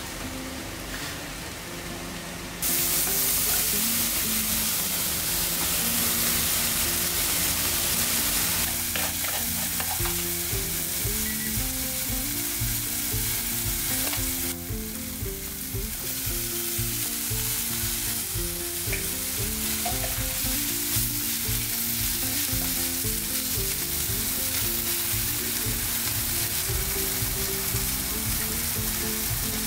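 Ground pork and chopped vegetables sizzling as they fry, stirred with a wooden spatula. The sizzle turns suddenly louder a few seconds in and drops briefly about halfway.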